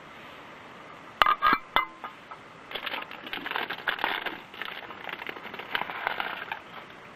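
A utensil against metal camp cookware: three or four sharp ringing metallic clinks about a second in, then a few seconds of quick clattering and scraping.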